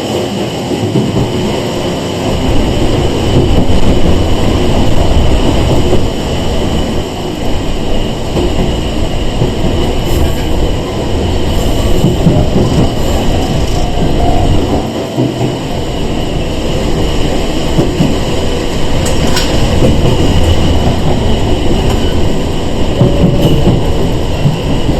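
Running noise inside a Sanki Railway 101 series (ex-Seibu 401 series) electric train under way: a steady loud rumble from wheels and running gear, with a constant high tone and a few sharp clicks from rail joints.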